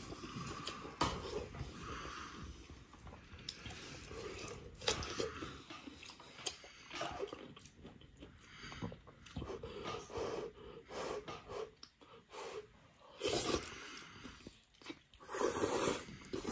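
Close-up mouth sounds of a person eating soft braised beef tendon: wet chewing with irregular smacks and slurps as pieces are sucked in from chopsticks.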